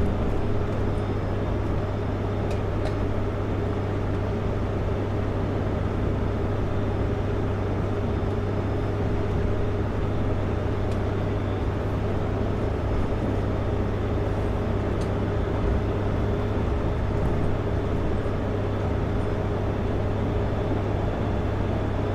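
Kenworth W900L semi truck cruising downhill, a steady, unchanging drone of engine and road noise heard from the cab.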